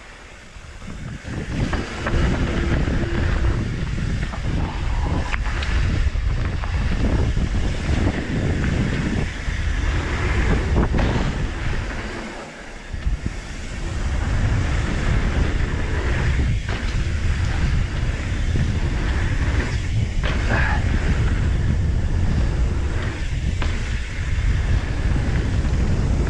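Wind buffeting the microphone of a camera riding on a mountain bike at speed down a dirt trail, a heavy low rumble. Occasional knocks sound from the bike over the ground. It quiets briefly about halfway through.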